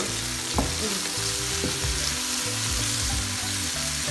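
Tomato, garlic, green chilli, curry leaves and roasted eggplant peel sizzling in hot oil in a pan while a wooden spatula stirs them, with a few light knocks of the spatula against the pan.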